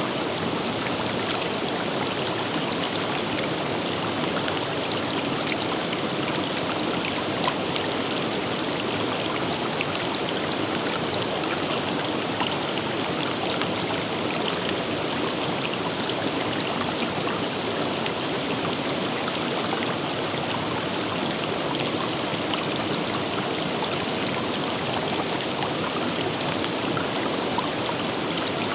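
Forest river flowing: a steady, even rush of water, with a faint thin high tone over the first half that fades away.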